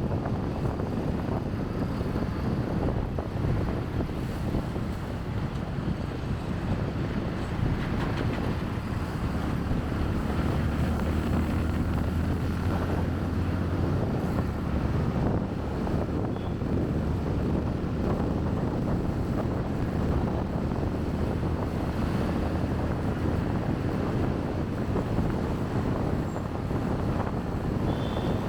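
Wind rushing over a chest-mounted camera's microphone on a moving motorbike, over steady engine and traffic noise. A low engine drone grows stronger about ten seconds in and eases off a few seconds later.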